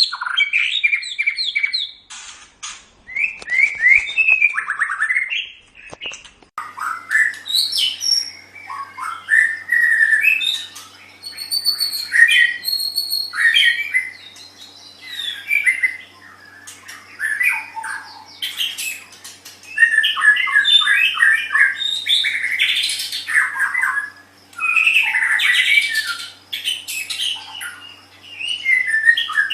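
White-rumped shama (murai batu) singing in bursts of fast, varied phrases: clear whistles, rapid trills and harsh chattering notes, with short pauses between phrases. A faint steady low hum comes in about six seconds in.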